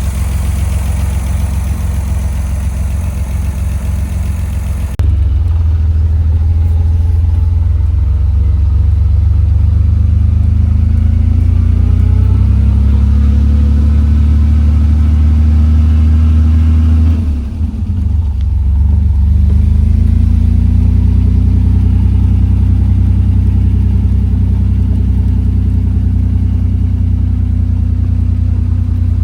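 Austin-Healey BJ7's straight-six engine driving. The sound turns abruptly deeper and heavier about five seconds in, then the engine note rises steadily under acceleration. It drops briefly, as at a gear change, just past halfway, then settles into a steady cruise.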